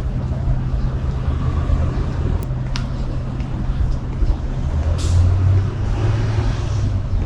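City street traffic with a large vehicle's engine running as a steady low hum, and a short hiss about five seconds in that fades away.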